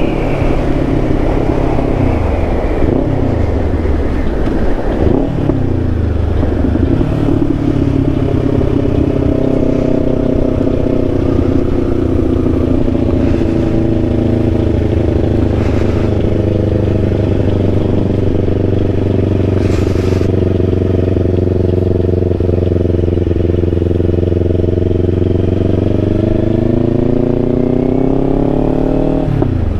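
2024 Kawasaki Ninja 500's parallel-twin engine under way. Its note falls over the first few seconds as the bike slows, holds steady while cruising, then climbs near the end and drops off suddenly.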